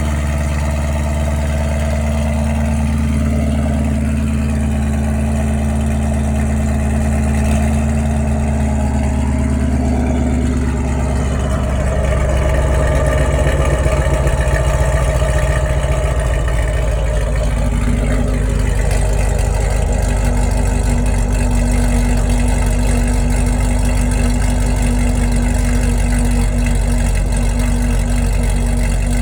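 6th-generation Camaro SS's 6.2-litre LT1 V8 idling through Texas Speed 2-inch long-tube headers, an X-pipe and the factory NPP exhaust. It runs as a steady deep rumble, with a few slight rises and falls in engine speed before it settles into an even idle for the second half.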